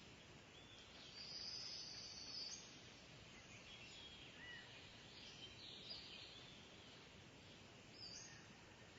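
Kingfisher giving shrill high-pitched calls: one longer call a little over a second in, then several shorter ones, faint over a steady background hiss.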